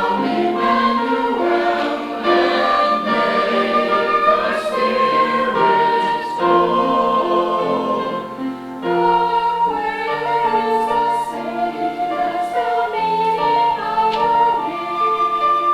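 Choir singing a sustained, multi-part Christmas choral piece, with a short breath between phrases a little past the middle.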